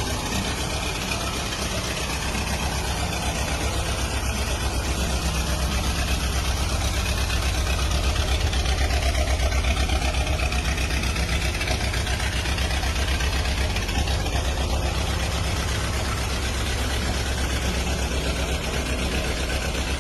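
1913 Ford Model T Speedster's engine running steadily with a rapid, even low beat, growing a little louder around the middle.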